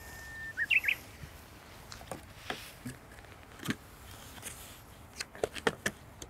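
A bird calls once at the start: a held whistle followed by a short quick warble. Scattered light clicks and taps follow.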